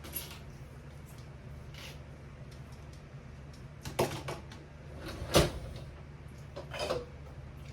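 Kitchen cabinet doors and drawers knocking open and shut while utensils are put away: a few sharp knocks, the loudest about five seconds in, over a steady low hum.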